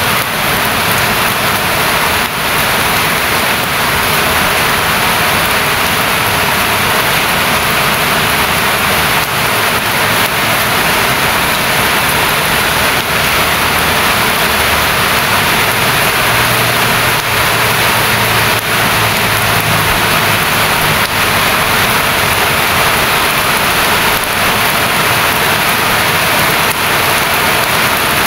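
Steady heavy rain, an even rushing hiss, with a faint low hum for a few seconds past the middle.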